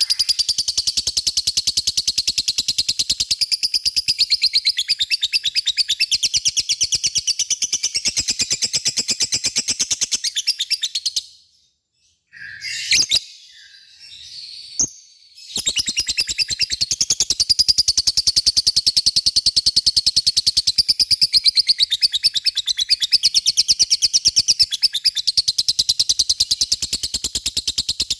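A lovebird's long "ngekek" chatter: a rapid, high-pitched run of evenly repeated notes. It breaks off about eleven seconds in, a few short chirps follow, and a few seconds later the long rapid chatter starts again.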